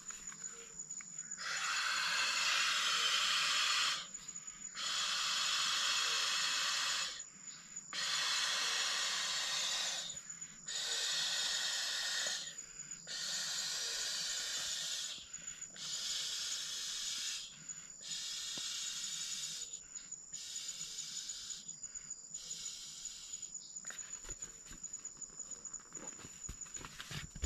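A series of about ten hissing rushes of air, each two to three seconds long with short pauses between, gradually getting fainter. A steady high thin whine, like an insect, runs underneath.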